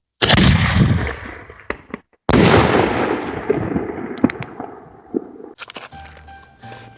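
Two loud firework bangs about two seconds apart, each trailing off over a couple of seconds. Music comes in near the end.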